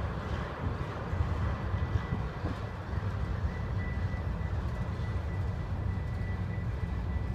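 Freight train of tank cars and covered hoppers rolling past: a steady rumble of wheels on rails, with a thin steady high whine above it.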